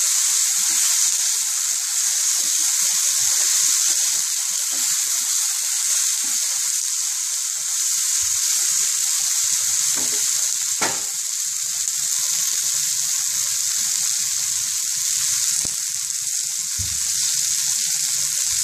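Cut okra frying in oil in a nonstick pan over full gas flame, a steady high sizzle, while a spatula stirs it. A single sharp click sounds about eleven seconds in.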